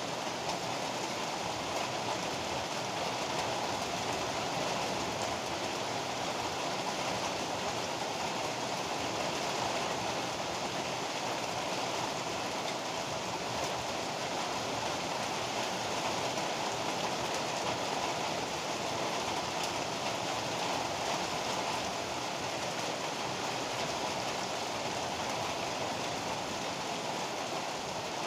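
Heavy rain pouring down steadily: a dense, even hiss with no breaks or sudden claps.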